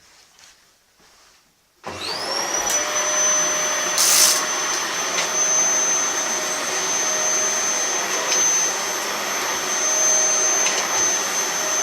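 Vacuum cleaner switched on about two seconds in: its motor whine rises quickly to a steady high pitch and keeps running, with a brief hiss about four seconds in.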